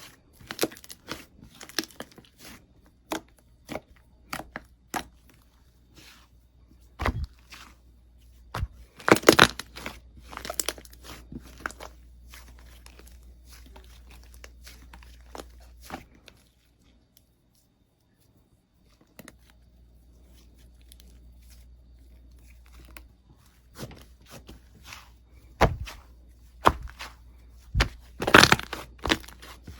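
Slime being squeezed and pressed by hand, giving irregular sharp crackles and pops, in thicker clusters at times. It breaks off for a couple of seconds of near silence just past halfway.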